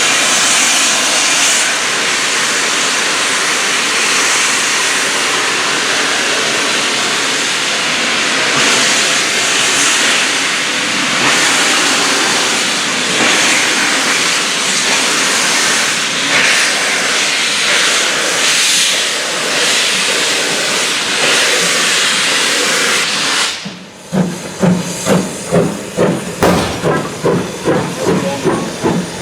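Ivatt Class 4 2-6-0 steam locomotive arriving, with a loud, steady hiss of escaping steam. Near the end the hiss stops abruptly and gives way to regular pulses about twice a second.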